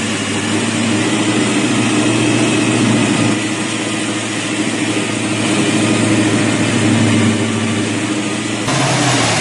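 Custom 1965 Chevy Impala's 377 cubic-inch Chevrolet small-block V8 with dual four-barrel carburetors running steadily at idle through its exhaust. The sound changes abruptly near the end.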